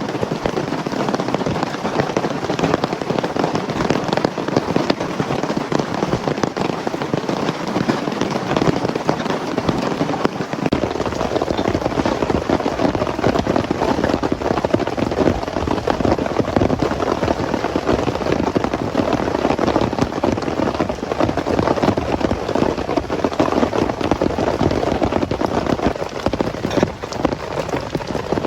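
Heavy rain falling hard: a loud, steady, dense crackle of drops striking a surface. A low rumble fills in underneath about ten seconds in.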